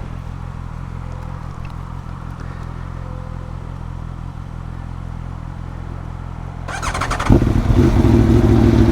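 A motorcycle engine idling steadily, then about seven seconds in a second motorcycle close by is started with a brief starter whirr, catches and settles into a much louder, steady idle.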